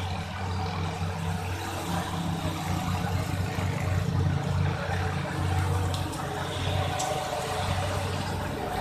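A large truck's engine running steadily, a low hum that swells and eases a little.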